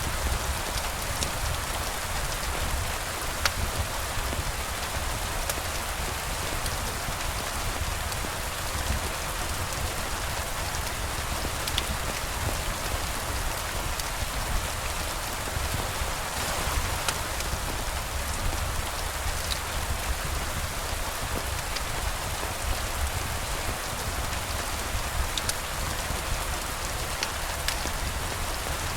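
Steady rain falling, an even hiss with a low rumble underneath, broken by a few scattered sharp ticks.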